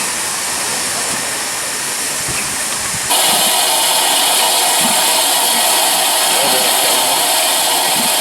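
Steam hissing from a PKP Ol49 steam locomotive, a steady loud hiss that jumps suddenly louder and brighter about three seconds in and then holds.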